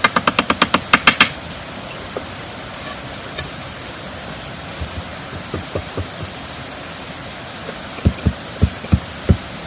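Steady background hiss with a rapid run of about a dozen sharp knocks in the first second, then five dull, low thuds near the end, as from handwork with wood, bamboo or stone.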